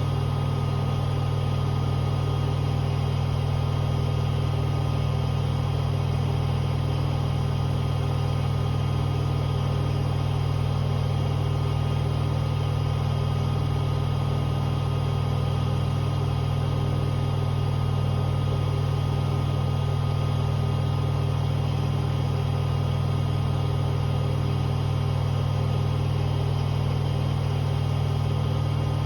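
Hoover H-Wash 500 washing machine on a 1600 rpm spin-only cycle, the drum spinning at a steady speed with a strong, even low hum and faint motor whine.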